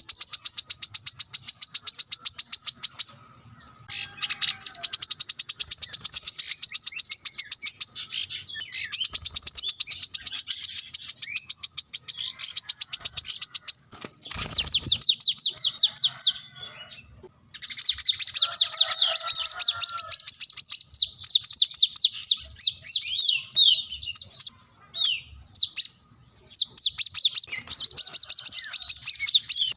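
Brown-throated sunbird (kolibri kelapa) singing in long, very rapid, high-pitched trills a few seconds each, with short breaks between phrases. It is a male in vigorous song, challenging a rival.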